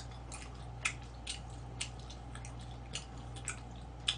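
Close-miked wet chewing of sauced chicken: irregular moist clicks and lip smacks, two or three a second, the sharpest about a second in and near the end, over a faint steady hum.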